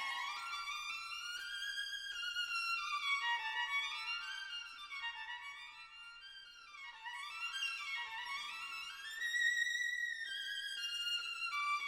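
Background music: a violin playing quick runs of notes that climb and fall, with a softer passage in the middle.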